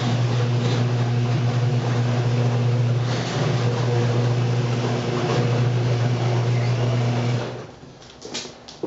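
Sears 139.53985 half-horsepower all-chain-drive garage door opener running steadily as it raises a heavy wooden double garage door. The motor hum stops abruptly about seven and a half seconds in, followed by a few light clicks.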